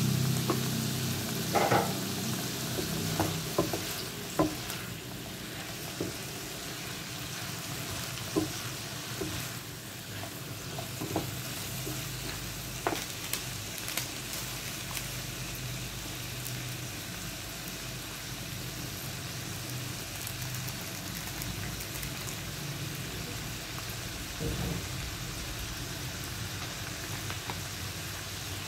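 Chicken livers and diced vegetables sizzling steadily in a frying pan, with scattered clicks and scrapes from a utensil stirring them, mostly in the first half.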